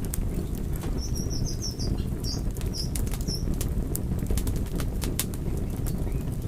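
Fire crackling, with sharp pops and snaps scattered over a steady low rumble of burning. About a second in there is a short run of faint high chirps.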